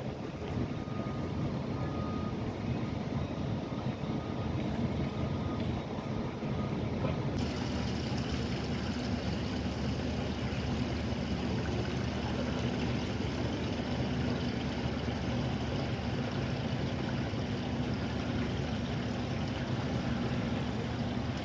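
Steady low engine drone with a hiss over it. The hiss changes suddenly about seven seconds in.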